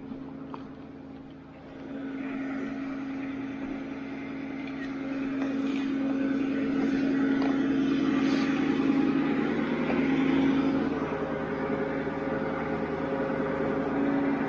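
Ford F450 recovery truck running with a steady droning hum, growing louder over the first several seconds and then holding.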